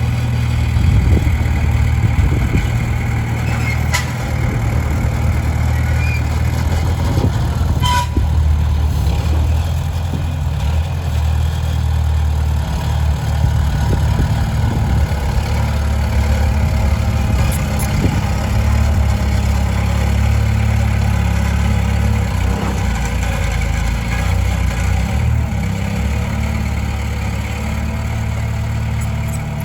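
Diesel engine of a Komatsu D20P bulldozer running steadily while it works, with a few sharp metallic clanks.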